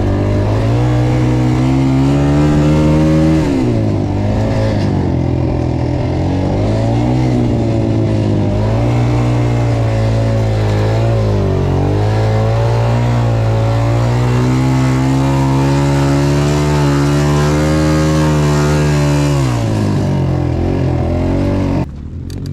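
Motocross dirt bike engine being ridden on the track, revving up and dropping back over and over as the throttle opens and closes. It eases off about 20 seconds in and turns quieter near the end.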